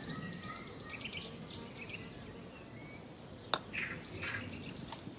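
Birds chirping: short high calls and quick falling whistles, with a single sharp click about three and a half seconds in.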